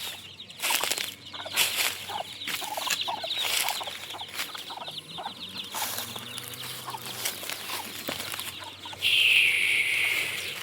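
Desi chickens clucking, with many short calls over constant high cheeping. A louder, harsh drawn-out call starts about nine seconds in.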